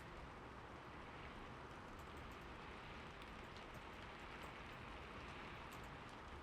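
Steady, soft rainfall, an even hiss of rain with many small scattered drop ticks.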